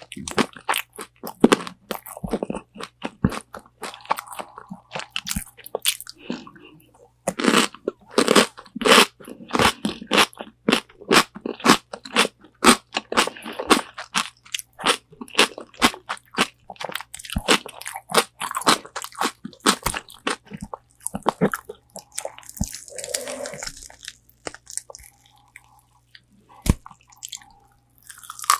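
Close-miked crunching and chewing of crispy, spicy Korean fried chicken wings: bite after bite of sharp, crackling crunches in quick succession. The crunches thin out for a few seconds near the end, then pick up again.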